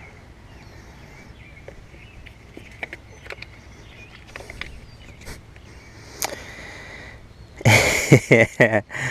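Faint scattered clicks and taps from hands handling a spark plug wire boot, over a low steady hum. Near the end comes a man's loud gasp and exclamation.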